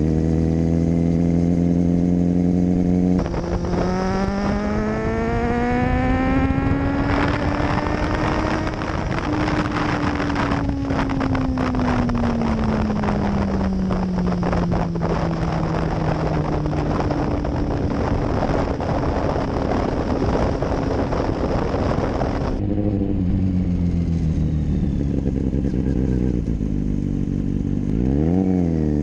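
Kawasaki Z800 inline-four engine under way, heard from a camera on the bike. It runs steadily, then pulls up through the revs and eases back under wind rush on the microphone. Near the end there is a quick rev up and down.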